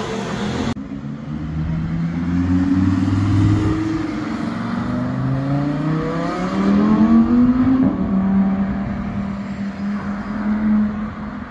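Sports car engine accelerating hard up through the gears, its pitch climbing in several sweeps and dropping back at each upshift, then holding a steady note near the end.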